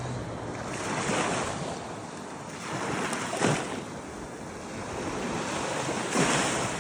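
Ocean surf washing onto the beach, swelling up three times, with some wind buffeting the microphone.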